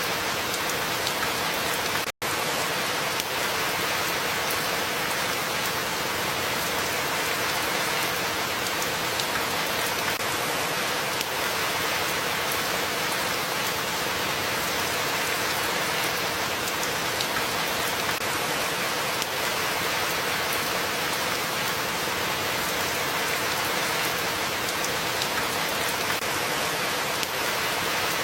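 Steady rain falling, a dense even hiss with faint scattered drop ticks. The sound drops out for a split second about two seconds in.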